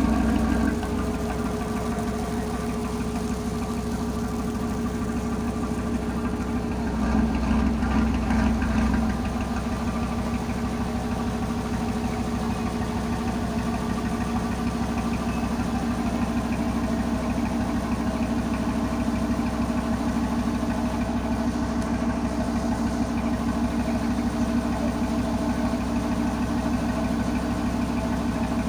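Tugboat engine running steadily. It is louder for the first second and again from about seven to nine seconds in, as if throttled up briefly.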